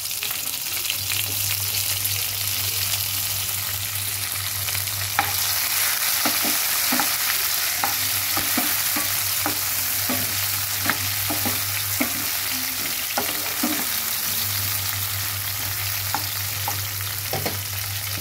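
Chopped tomatoes sizzling in hot oil with fried onions and cumin seeds, a steady hiss, while a stirring utensil knocks and scrapes against the non-stick pan in frequent short clicks, thickest from about five seconds in.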